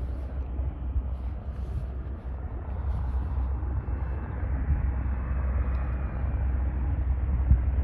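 HondaJet's twin GE Honda HF120 turbofan engines running, a steady jet roar over a strong low rumble that grows gradually louder through the second half, with a faint high whine in the middle.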